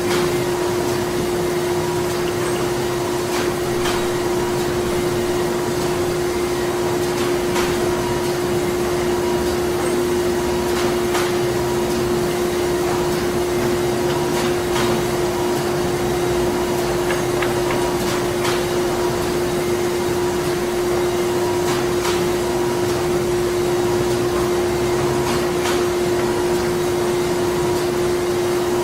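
Printing-plant machinery running steadily, with one strong constant hum over a bed of mechanical noise. A faint higher tone cuts in and out, and sharp clicks and knocks come at irregular moments.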